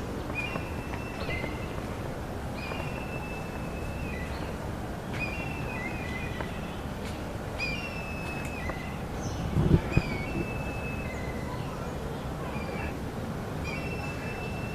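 A bird calling over and over, each call a short steady whistled note that drops to a lower one. A brief low thump about ten seconds in.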